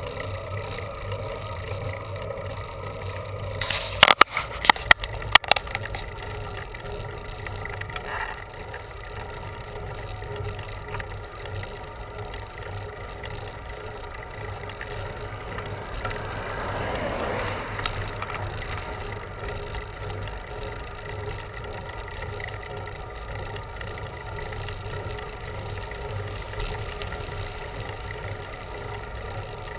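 Bicycle being ridden on the road: steady rolling and wind noise, with a quick run of sharp clicks about four seconds in. A rushing sound swells and fades near the middle.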